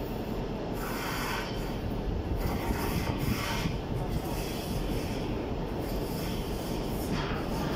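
ChS6 electric locomotive hauling a double-deck passenger train, arriving at a terminus platform: a steady rumble of the train rolling in on the rails.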